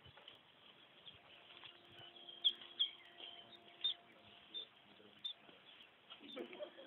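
Birds chirping in the background: a handful of short, high chirps, loudest a little over two seconds in, over faint outdoor ambience.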